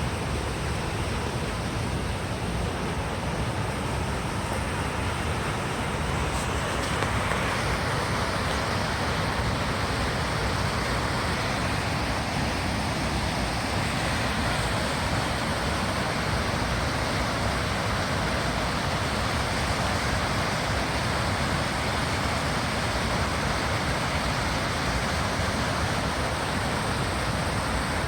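Steady rushing of a waterfall, a continuous roar of falling water that grows fuller about seven seconds in.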